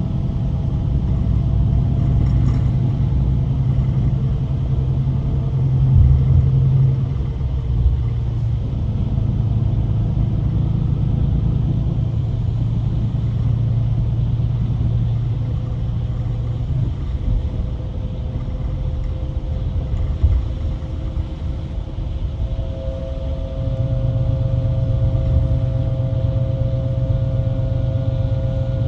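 Diesel engine and road rumble of a Scania-chassis Irizar i8 coach under way. The low engine hum drops back about two-thirds of the way through, then picks up again near the end with a steady higher whine added.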